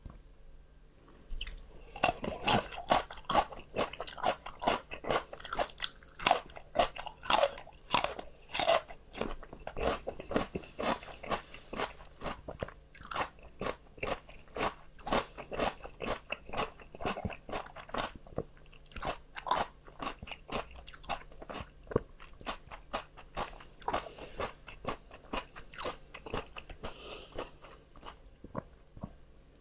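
Close-up chewing of crisp raw vegetables: a steady run of wet, crisp crunches, about two a second. It starts after a short pause and thins out near the end.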